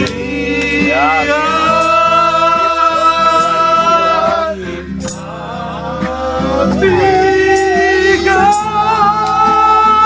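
Singing from a live campfire-song medley: a voice holds long notes in two phrases, over a steady low accompaniment with a few sharp percussive hits.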